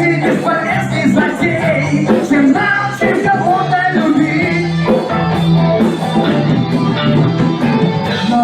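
A band playing a song, with singing over the instruments.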